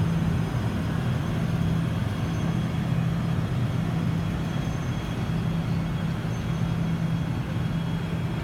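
Guangzhou Metro Line 1 train noise: a steady low rumble with a constant low drone that holds one pitch.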